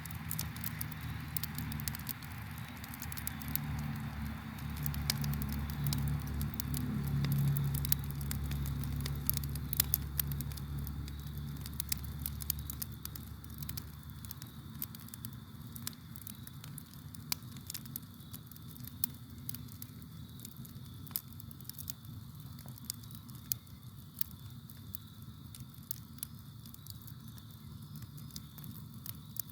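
Campfire burning, with the wood crackling and popping in frequent sharp snaps. A low rumble under the fire fades out about halfway through, and faint steady cricket chirring runs underneath.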